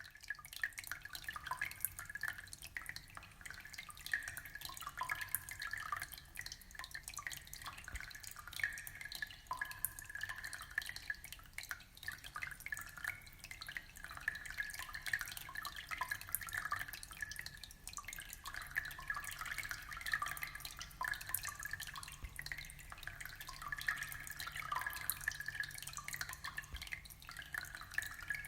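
Water trickling and dripping in an aquarium, a steady stream of many small drips and splashes.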